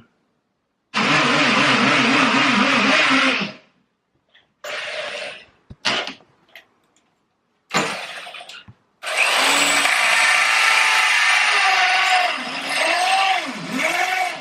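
Power drill running in bursts: a long run about a second in, a few short bursts, then a long run from about nine seconds whose pitch falls and rises near the end.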